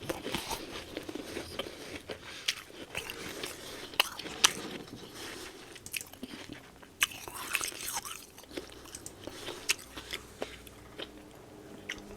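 Close-miked biting and chewing of soft, powdery freezer frost from a humidifier-frosted freezer: irregular crisp crunches and squeaky crackles as mouthfuls are bitten and chewed, with the odd sharper snap.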